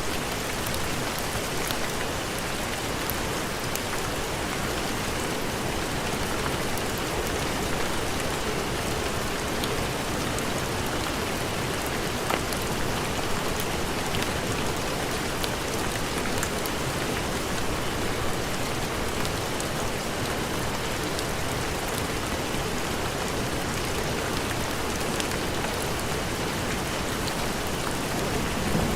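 Steady heavy rain falling, an even wash of noise with scattered light ticks.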